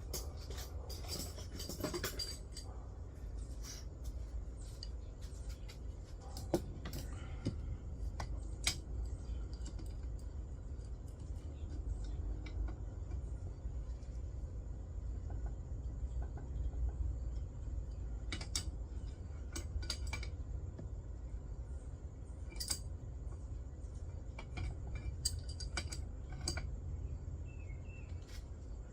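Scattered metallic clicks and clinks of a wrench and bolts on a chainsaw mill attachment being tightened and adjusted, some in quick clusters, over a steady low rumble.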